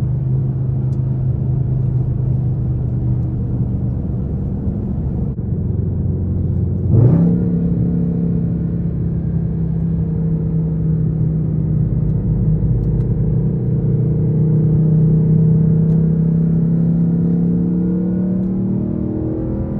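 Straight-piped Infiniti M56 5.6 L V8 exhaust droning at a steady engine speed. About seven seconds in, the revs jump sharply higher with a brief crack, then hold steady until they begin to fall near the end.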